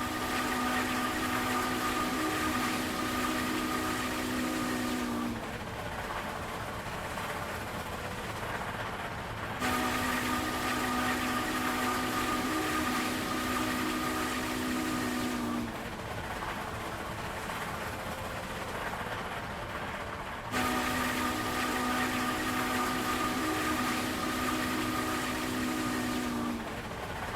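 A multi-tone air horn sounds three long blasts of about five to six seconds each, with a few seconds between them, over steady vehicle running noise.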